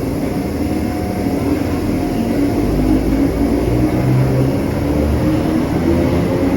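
Electric multiple unit running with its traction motors whining, the tones edging slightly upward and the noise building gradually as the train picks up speed, over a low rumble.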